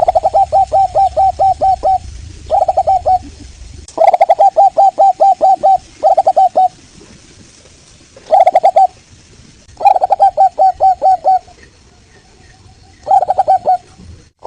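Zebra dove (local perkutut) singing: quick runs of short cooing notes, about four to five a second. The runs come in bursts of half a second to two seconds with brief pauses between.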